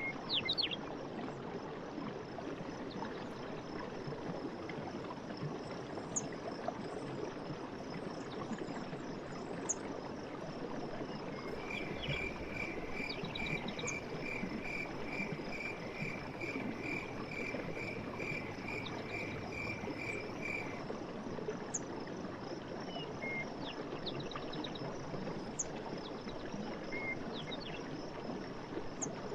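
Night forest ambience: insects trill steadily over a constant rushing hiss. Short chirps come now and then, and a single call repeats about twice a second for roughly nine seconds in the middle.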